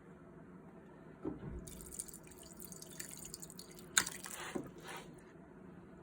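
Water running briefly, as from a tap, for about three and a half seconds, with a few light knocks and one sharp click partway through.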